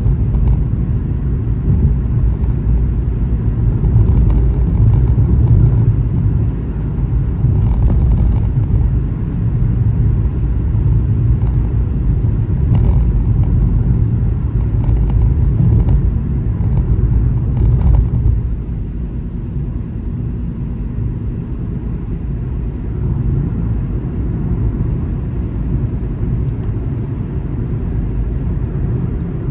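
Car driving on a highway, heard from inside: a steady, low road rumble that eases a little about eighteen seconds in.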